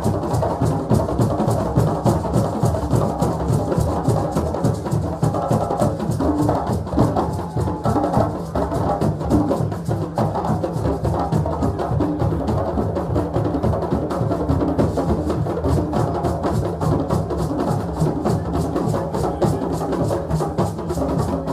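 West African drums played together in a fast, dense rhythm, many strokes a second without a break, sounding muffled.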